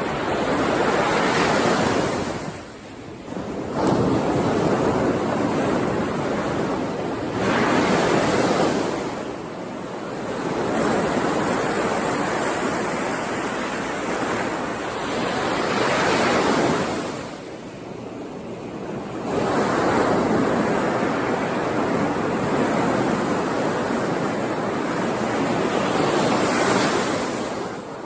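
Ocean waves breaking and washing up the shore, the surf swelling and ebbing every few seconds with short lulls between sets.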